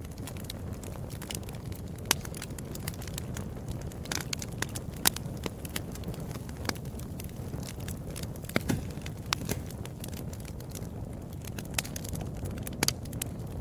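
Wood fire crackling in a fireplace: a steady low rumble of burning with irregular sharp pops and snaps, a few of them louder than the rest.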